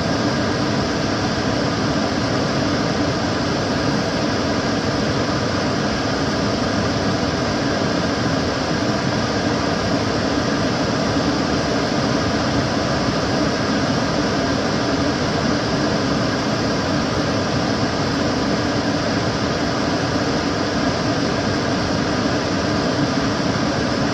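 Kitchen cooker hood extractor fan running steadily: an even rush of air with a faint motor hum, unchanging throughout.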